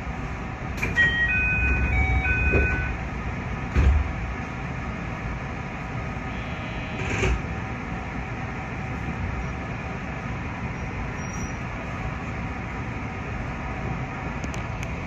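Inside a JR West 221 series electric train: a short electronic chime of alternating high tones about a second in, a heavy thump about four seconds in, then the train's steady running noise.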